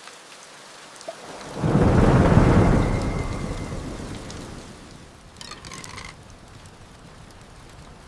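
Heavy rain falling steadily, with a clap of thunder about a second and a half in that rumbles loudly and fades away over about three seconds. A brief higher sound comes about five and a half seconds in.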